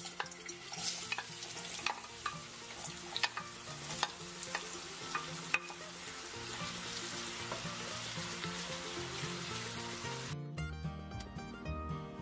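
Diced raw potatoes dropped into hot oil in a frying pan: scattered clicks and clatter as the pieces go in, then a steady sizzle as they fry. Background music runs underneath, and the sizzle gives way to it near the end.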